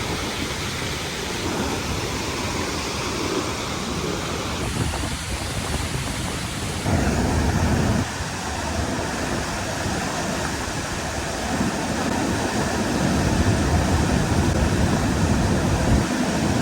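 Waterfall rushing: a steady, even noise of falling water, briefly louder for about a second around seven seconds in.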